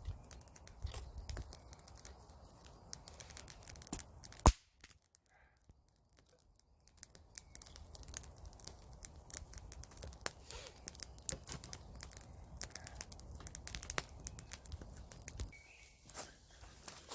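Small wood fire of dead willow crackling, with many sharp, irregular pops. A loud snap comes about four and a half seconds in, followed by a couple of seconds of near silence before the crackling resumes.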